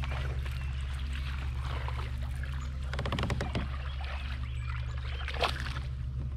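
Water sloshing around a small boat over a steady low hum, with a quick run of clicks about three seconds in and a single sharp knock near the end.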